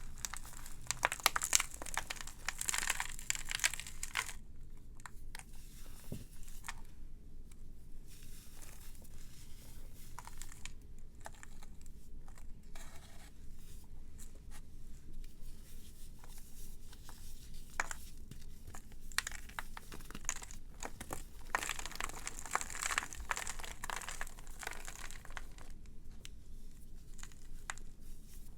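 Brittle dry material being crushed and crumbled, with dense crackling in two spells, at the start and about three-quarters of the way through, and scattered small crackles between.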